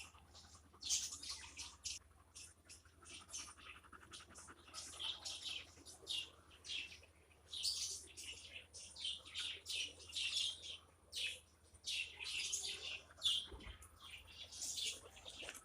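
Birds chirping in quick, irregular bursts of short high calls.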